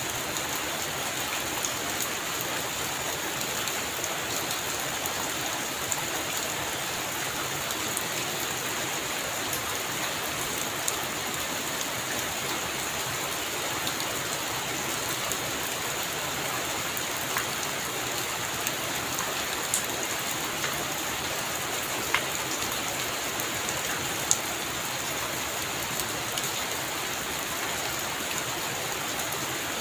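Heavy rain falling steadily, with a few sharper drops striking close by now and then.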